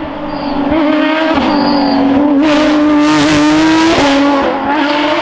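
A Porsche rally car's engine pulling hard at high revs, its note climbing slowly and then dropping about four seconds in as the throttle comes off or the gear changes. From about two and a half seconds in, a loud hissing rush lasting about a second and a half rides over the engine.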